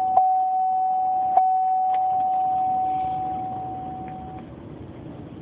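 A steady, high electronic tone with a few sharp clicks over it, fading out about four seconds in, leaving a low steady hum.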